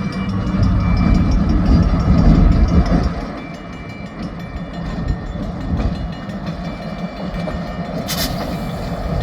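Diesel freight locomotive running with rail cars during slow switching moves: a steady low engine rumble with light clicking and clanking of cars, loudest over the first three seconds. A brief sharp burst of noise comes near the end.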